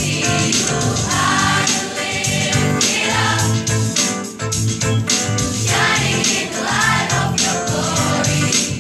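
A school choir singing a Christian worship song in parts, with sustained keyboard accompaniment underneath.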